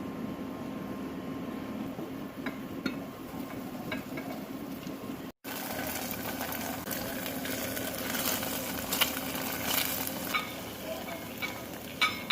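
Kitchen cooking sounds: a utensil stirring in a pot or pan, with frequent clinks and scrapes of metal ringing briefly, busier in the second half, over a steady low hum.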